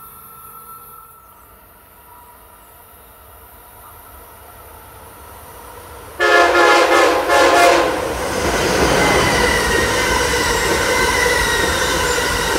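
Amtrak Acela Express high-speed trainset approaching as a faint rumble that slowly grows, then sounding a loud horn chord for about a second and a half, after which the train rushes past at speed.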